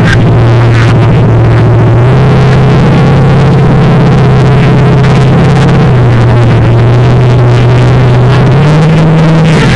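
Monster truck engine running very loud and close, a steady low drone that shifts in pitch a few times, dropping about two seconds in and again near the middle, then rising near the end.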